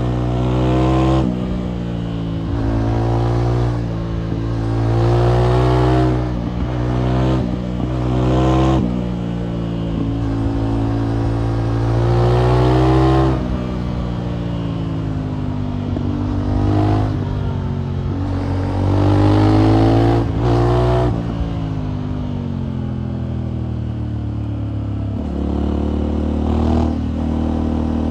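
Motorcycle engine on an aftermarket exhaust, ridden hard: the pitch climbs as it accelerates, then drops at each gear change, about eight pulls in a row, with a steadier cruise for a few seconds past the middle.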